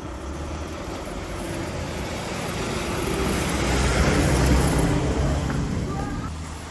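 A road vehicle passing by, its rumble swelling to a peak about four seconds in and then fading.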